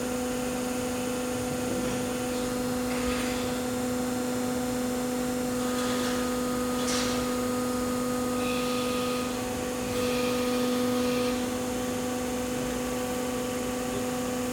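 Baykal hydraulic press brake's pump and motor running, a steady hum with a few faint hisses over it.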